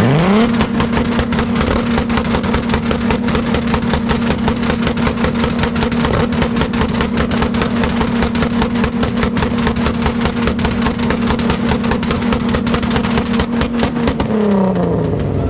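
Car engine revved up quickly and held flat at high revs for about fourteen seconds, then let back down near the end, typical of a burnout.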